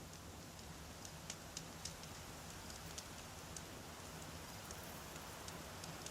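Wood campfire crackling: irregular sharp pops and snaps of burning logs, several a second, over a steady low rumble of the fire.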